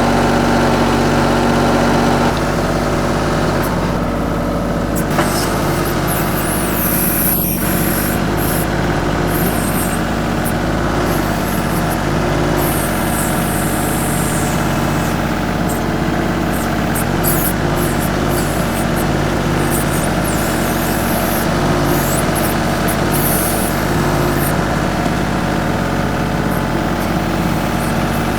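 TYM 2515H compact tractor's diesel engine running steadily throughout, its note changing slightly about two seconds in, with brief high-pitched hissing sounds coming and going over it.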